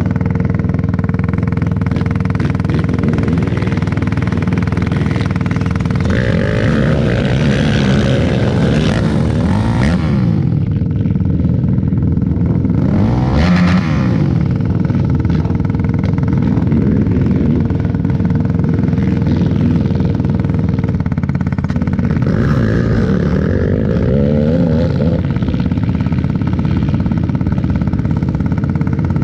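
Racing quad (ATV) engines running with a steady, even tone underneath. Engines rev up and down from about six seconds in, a brief louder burst comes near the middle, and there is more revving toward the end.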